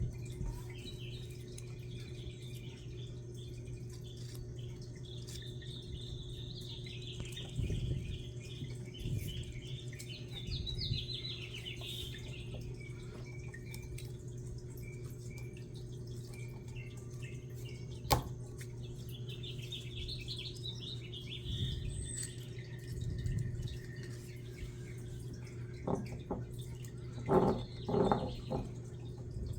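Small birds chirping and singing in scattered phrases over a steady low hum, with a single sharp click partway through and a few louder short knocks near the end.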